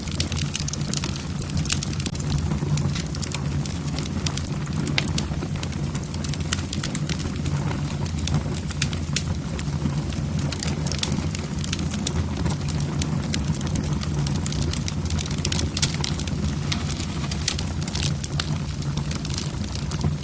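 Wood fire in a fireplace: logs crackling with frequent, irregular sharp pops over a steady low rumble of flames.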